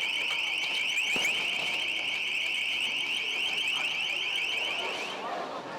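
Steady, shrill, high-pitched whistling with a fast trill, like many whistles blown together, which stops about five seconds in.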